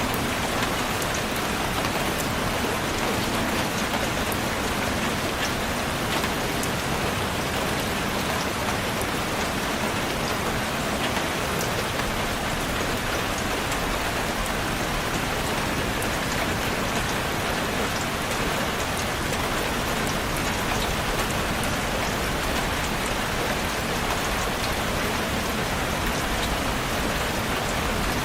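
Steady rain falling, a dense even hiss with scattered individual drops striking surfaces.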